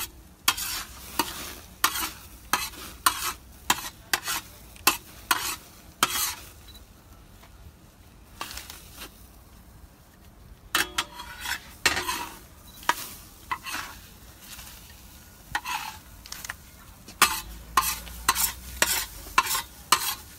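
A utensil scraping and tapping in a pan of food frying on low heat, in quick strokes about one or two a second, with a few seconds' pause in the middle; a faint sizzle underneath.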